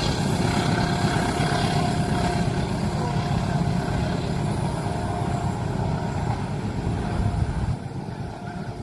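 Heavy vehicle running past with a steady low rumble and a faint steady whine, dropping off suddenly near the end.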